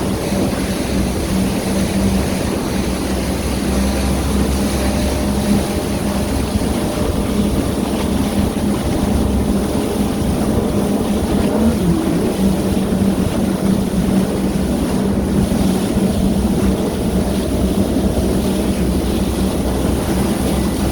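Yamaha VX Sport jet ski's engine running at a steady, even speed, with a constant rush of wind and water over it. The engine note dips briefly about halfway through.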